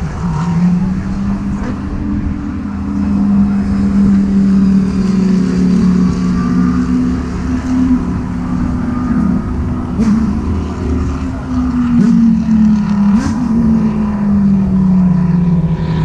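GT race car engines running on the circuit: a continuous engine note that slowly rises and falls in pitch, with a few short sharp cracks about two-thirds of the way through.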